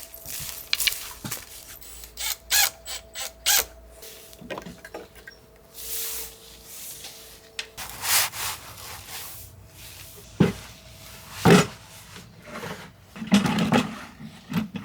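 Things being handled and set down: irregular knocks, clicks and short scraping or rubbing noises.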